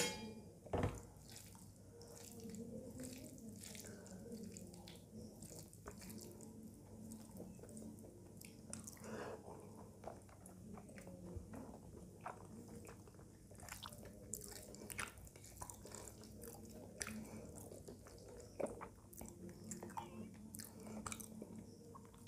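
Close chewing and wet mouth sounds of someone eating rice and curry, with soft squishes and clicks as fingers mix the food on a metal plate. A sharper knock comes about a second in.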